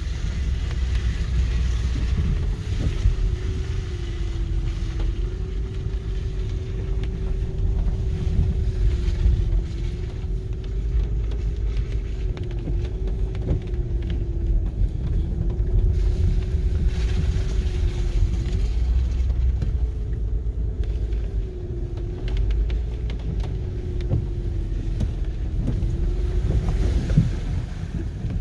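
2006 Honda Pilot's V6 engine running as the SUV drives a rough unpaved track, a low rumble with an engine note that rises and falls with the throttle, and scattered knocks and bumps.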